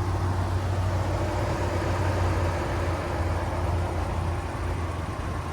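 Car engine idling: a steady low hum under a wash of background noise.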